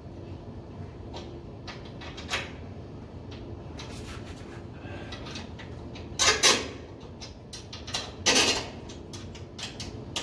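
A series of light clicks and knocks, with two louder clunks about six and eight seconds in, over a steady low hum.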